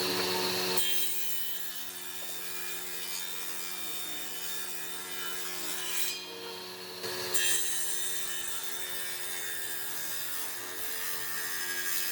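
A power tool working wood: a steady motor hum under a rough, rubbing noise. The rubbing drops away about six seconds in and comes back about a second later.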